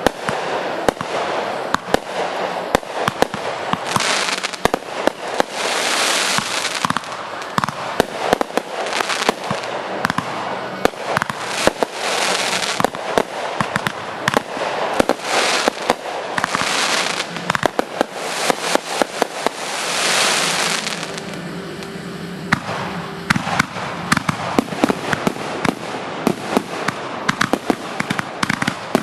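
Fireworks crackling and popping in a dense, rapid stream of cracks, with a loud hiss swelling up every few seconds.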